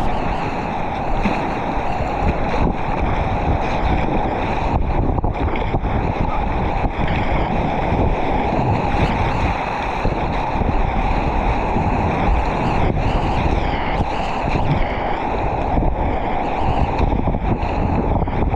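Whitewater rapids rushing steadily around a kayak, with wind and water buffeting the microphone.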